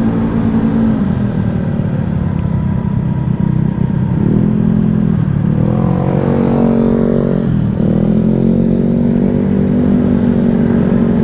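Rusi KR200 dirtbike engine running while riding, the revs rising twice and dropping sharply about eight seconds in before settling to a steady run.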